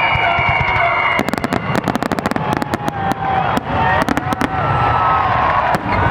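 Fireworks display: a whistle falling slightly in pitch, then about a second in a dense run of crackling pops, followed by scattered sharp bangs over a continuous low rumble of booming shells.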